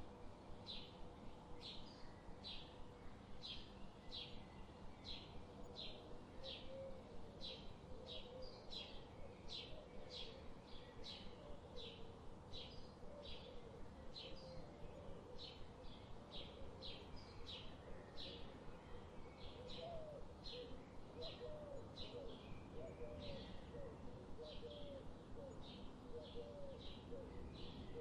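Birds calling in a forest. One bird repeats a short, high call about twice a second, steadily, and a lower, wavering series of notes joins about six seconds in.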